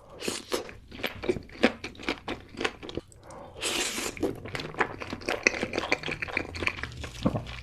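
Close-miked chewing of raw salmon: wet, sticky mouth sounds with many small clicks and smacks, and a short hiss of breath or slurping about halfway through.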